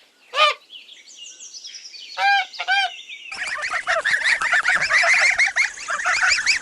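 Geese honking: a single honk, then two more about two seconds in, and from about three seconds in a flock honking and calling continuously.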